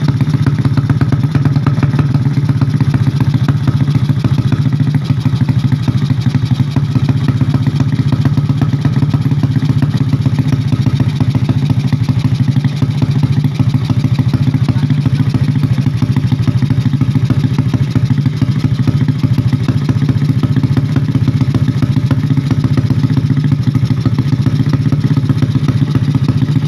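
Drag-bike motorcycle engine running steadily through a JRM racing exhaust, loud and unbroken, with a fast, even pulsing beat.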